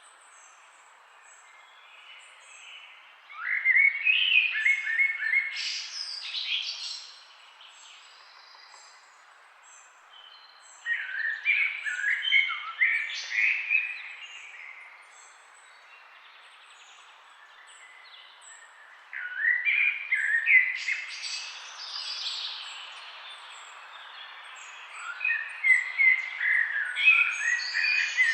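Songbirds chirping and singing in the trees, in bouts of a few seconds of quick overlapping chirps separated by quieter pauses, over a faint steady hiss.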